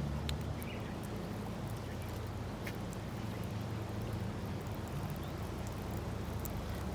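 Wood campfire crackling, with a few faint sharp pops, over a steady low engine hum from a motor vehicle.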